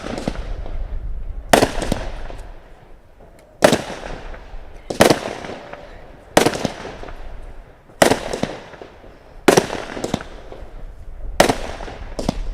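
Consumer firework cake firing: a series of sharp bangs about every second and a half, each trailing off briefly.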